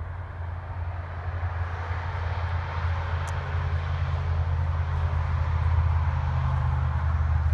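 Low, steady engine rumble of a distant motor vehicle, growing gradually louder.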